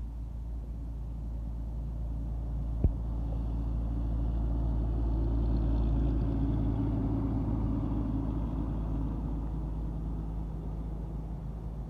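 A truck's engine drawing near and passing by: a low drone that grows to its loudest about halfway through, then fades. There is a single sharp click about three seconds in.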